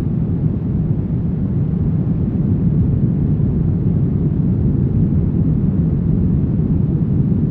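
Steady brown noise: an even, deep rush with most of its energy in the low end and little above a few hundred hertz.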